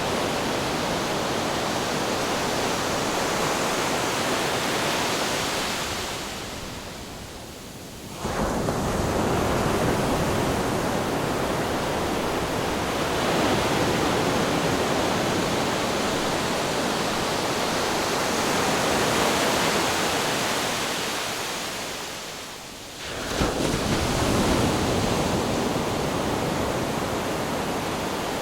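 Ocean surf and wind as a steady rushing noise. It fades away twice, about fifteen seconds apart, and each time comes back abruptly.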